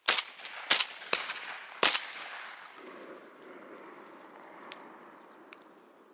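Four shotgun shots fired in quick succession within about two seconds, each followed by an echo that rolls on and fades away over the next few seconds.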